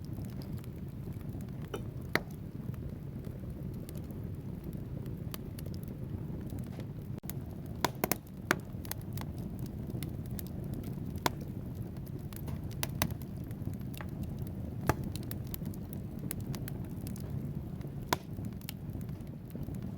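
Wood fire burning in a fireplace: a steady low rumble of flames with logs crackling and popping at irregular moments, the loudest cluster of pops about eight seconds in.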